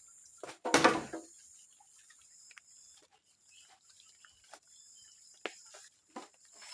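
Forest work sounds: a loud, brief crash about a second in, then scattered small knocks and snaps of hands working with wood, over a steady high drone of insects.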